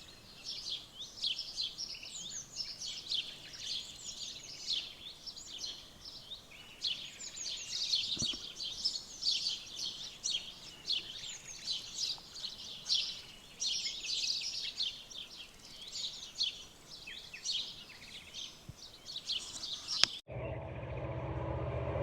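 Many songbirds singing at once, a dense chorus of quick warbling phrases. About twenty seconds in, it cuts off abruptly to the low rumble and steady hum of a train drawing near, growing louder.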